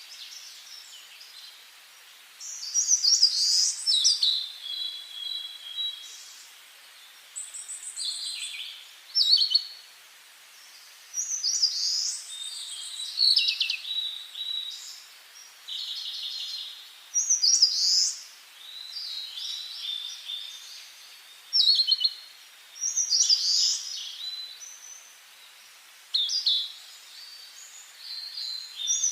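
Songbird singing: short, high, quick phrases repeated over and over, each a second or two long with a gap of a few seconds between them, over a faint steady hiss.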